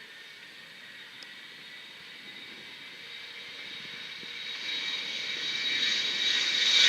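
Jet aircraft's turbofan engines whining, growing steadily louder as the aircraft approaches.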